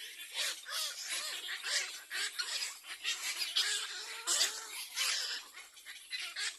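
Little egret chicks calling at the nest: short, harsh calls repeated in quick, irregular series, several a second.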